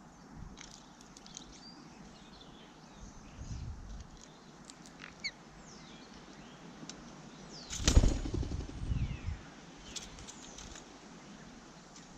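A bird's wings flapping close to the microphone in a short, loud flurry about eight seconds in, with a few faint high bird chirps before it.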